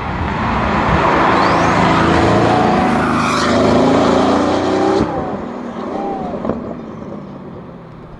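Pagani Huayras' twin-turbo V12 engines accelerating hard past at close range, the pitch climbing as they rev up. The sound drops sharply about five seconds in and then fades as the cars drive away.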